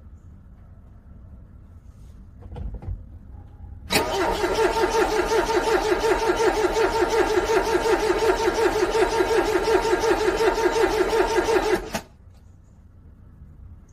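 A car's starter motor cranks a cold engine in a steady, rapid rhythm of pulses for about eight seconds, then cuts off suddenly without the engine catching.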